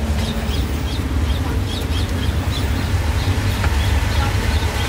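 A small bird chirping over and over, short high falling notes about twice a second, over a steady low rumble.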